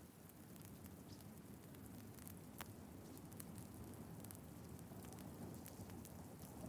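Wood fire crackling faintly, with a few sharp pops.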